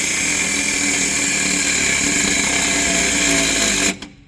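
Cordless cut-off tool with an abrasive disc running flat out against a rusted exhaust clamp bolt, a loud steady whine. It cuts off suddenly about four seconds in as its battery goes flat.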